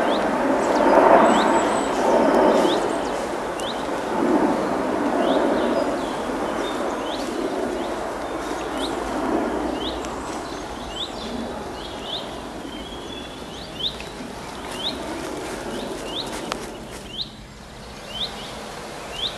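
A small bird repeats a short, sharp upward chirp about once a second over a rushing background noise that fades away through the first half.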